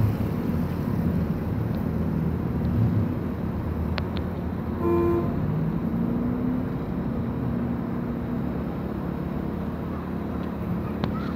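Car engine and exhaust running as a red Renault Mégane hatchback pulls away, easing off as it moves into the distance. A short car-horn toot sounds about five seconds in.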